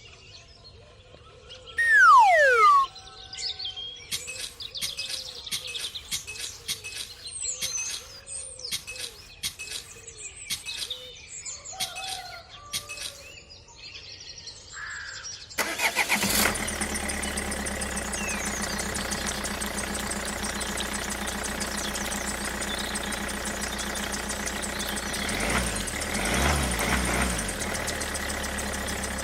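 Birds chirping among scattered clicks, with a loud falling whistle-like tone about two seconds in; about halfway a small engine starts abruptly and runs steadily.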